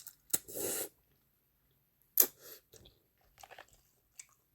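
Close mouth sounds of eating ramen noodles: chewing and wet lip smacks, with a short burst in the first second and a loud sharp smack about two seconds in, then a few small clicks.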